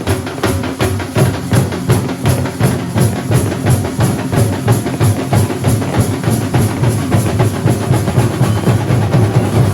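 Thambolam drum ensemble playing a fast, steady beat, with heavy bass-drum strokes about four a second and crisper strokes over the top.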